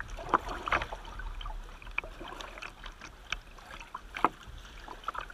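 Kayak being paddled on a river: irregular paddle splashes and water noise with scattered sharp clicks, the strongest just after the start and about four seconds in.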